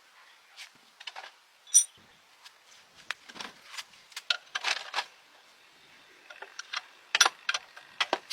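Irregular light metallic clinks and taps from metal tools or parts being handled, a few of them ringing briefly.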